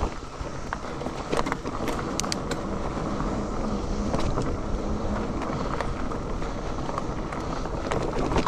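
A mountain bike being ridden over rough trail: steady tyre and frame rumble with wind noise on the microphone, broken by sharp clicks and rattles of the bike over bumps, a cluster of them about two seconds in and another near the end.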